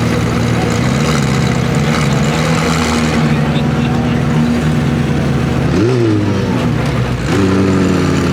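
Supercar engine running at a steady idle, with a quick blip of the throttle about six seconds in and the revs rising again near the end, over crowd chatter.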